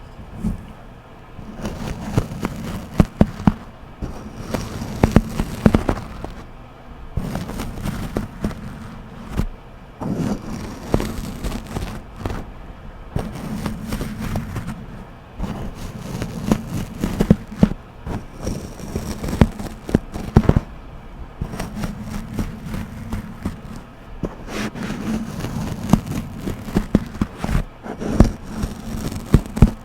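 A rice paddle rubbed and scraped against a scarf-covered microphone, making close, deep grinding noise full of sharp crackles, in uneven strokes of a second or two.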